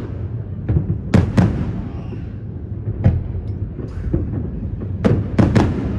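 Fireworks going off: sharp bangs at irregular intervals, a pair a little over a second in and a quick cluster of two or three near the end, over a steady low rumble of distant explosions.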